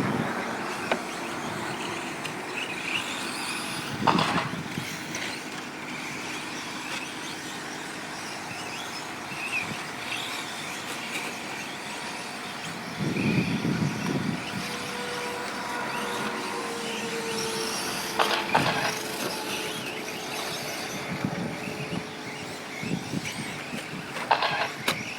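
Radio-controlled 4wd short course trucks racing on a track: a continuous mix of electric motor whine and tyre noise, with pitches gliding up and down as the trucks accelerate and brake. A few sharp knocks stand out, about four seconds in, near the middle and near the end.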